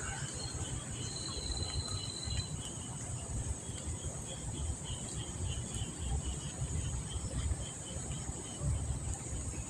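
Insects chirping and trilling steadily: a continuous high-pitched trill with a repeated pulsed chirp, over a low rumbling noise.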